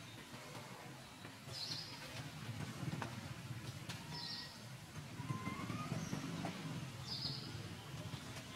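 A bird repeating a short, high call three times, about every two and a half seconds, over a steady low background rumble.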